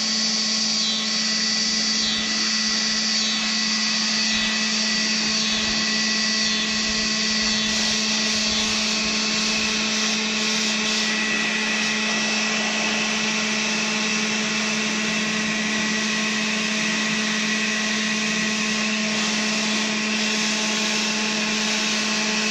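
Craftsman 24-volt battery leaf blower running steadily, a motor whine over the rush of air, blowing out a tractor's air filter.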